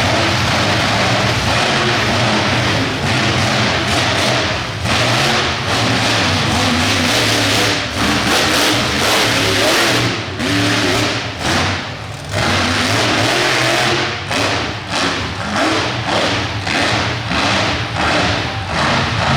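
Monster truck engine revving hard. About halfway through it switches to quick, repeated throttle blips, the sound surging and dropping several times a second.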